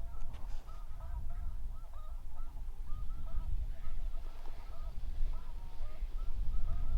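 Snow goose calls: many short honks overlapping in a continuous chorus, over a low rumble of wind on the microphone.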